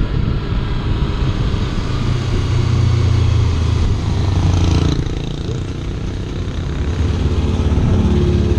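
Kawasaki Ninja 300 parallel-twin engine running under way, with road and wind noise. It eases off about five seconds in and picks up again near the end.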